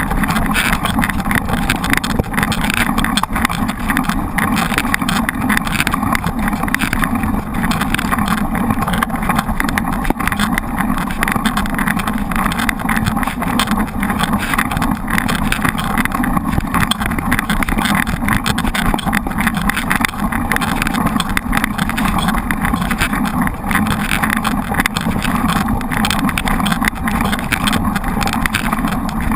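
Steady wind noise buffeting the microphone of a camera riding along on a mountain bike.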